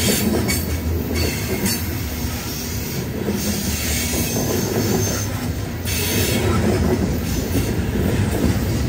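A loaded coal train of steel gondola cars rolling past close by: a steady, loud rumble and clatter of wheels on rail.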